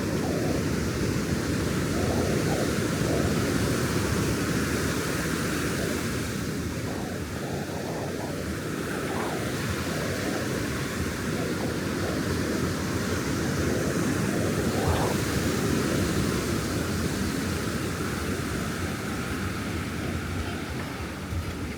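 Ocean surf breaking and washing up a sandy beach, a steady rush that swells a little louder twice.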